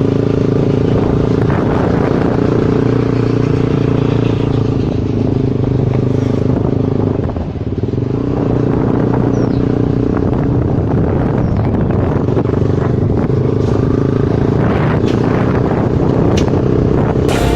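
Motorcycle engine running steadily while riding, easing off briefly about halfway through before picking up again.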